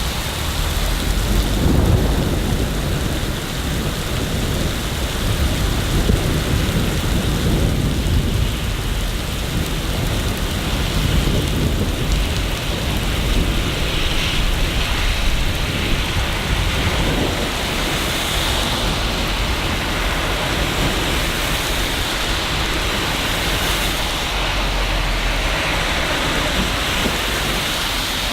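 Steady rain falling in the city, an even hiss, with low rumbling swells in the first few seconds and again around six to nine seconds in.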